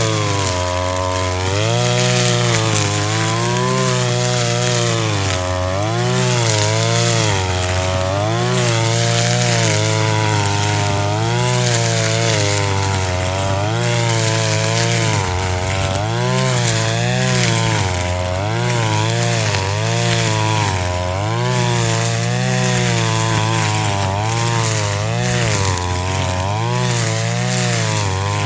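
Engine brush cutter running at full throttle, its pitch dipping and recovering over and over as the blade bites into thick grass and frees again.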